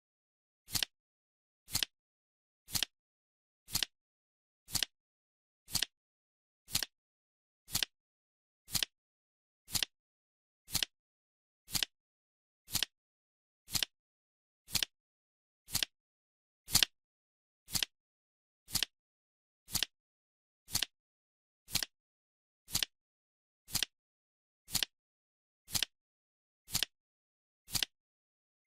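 Clock-style ticking from a countdown timer, one short, sharp tick every second with silence between; one tick about two-thirds of the way through is louder than the others.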